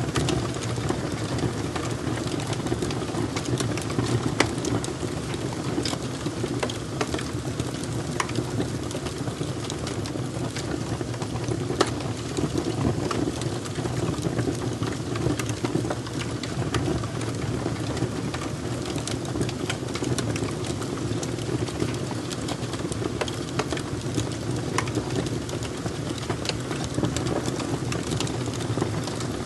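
Fire crackling: a steady low rush of burning with frequent, irregular sharp crackles and pops.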